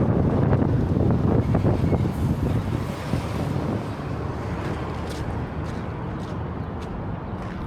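City street traffic: a passing vehicle's low rumble, loudest at first and fading after about three seconds, with a few light clicks later on.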